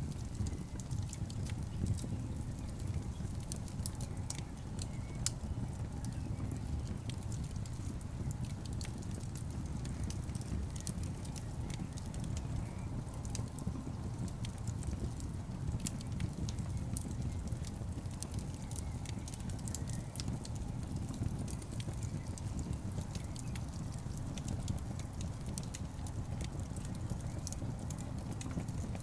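Wood fire in a fireplace crackling: a steady low rumble of the flames with frequent sharp pops and snaps from the burning logs.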